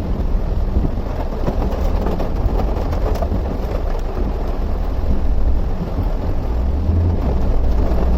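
A vehicle driving through a waterlogged road in heavy rain: a steady low rumble with a dense wash of water and rain noise over it, and no break.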